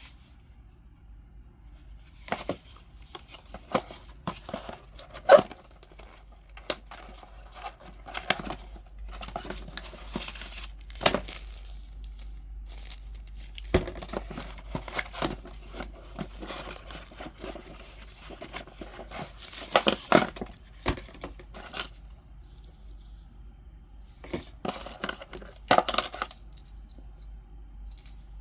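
Packaging being handled and opened: rustling and tearing with irregular sharp clicks and knocks, busiest in the middle and again near the end.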